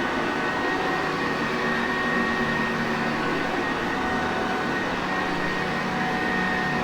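Sanitaire Perfect vacuum cleaner running steadily: an even rush of air with a faint constant motor whine and no change in pitch.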